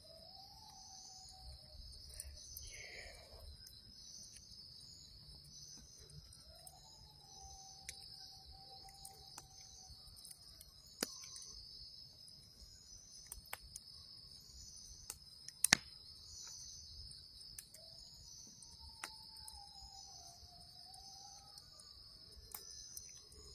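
Crickets chirping steadily while distant coyotes howl in long, wavering calls three times: near the start, about seven seconds in, and near the end. A few sharp pops or clicks cut through, the loudest about two-thirds of the way in.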